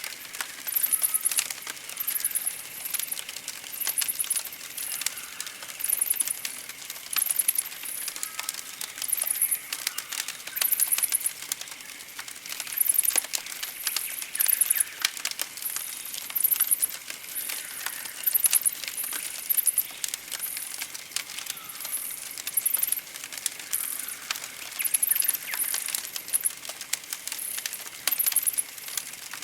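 Campfire crackling with sharp, irregular pops, under high trilled chirps that repeat about once a second.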